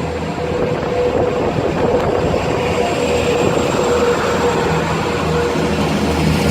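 Class 175 diesel multiple unit pulling away, its diesel engines running under power with a steady drone and a held humming note.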